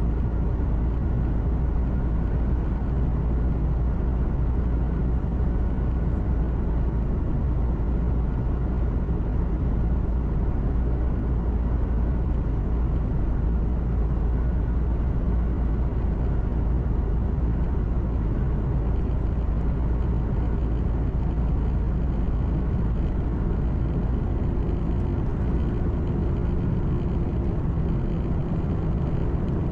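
Truck engine and road noise heard from inside the cab while driving: a steady low rumble with a faint hum above it. A slightly higher steady hum comes in near the end.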